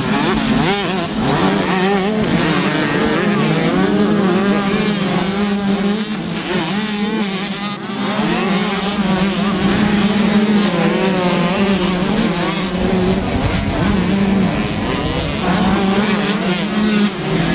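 125 cc two-stroke motocross bike engines at race pace, revving up and falling back as the riders work through the gears, with a steady high drone underneath.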